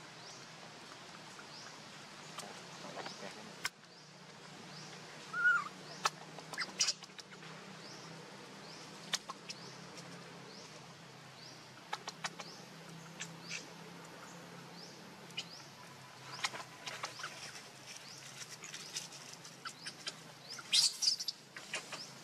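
A small bird chirping in the background, a short high chirp repeated about once a second, with scattered sharp clicks and crackles that are loudest near the end.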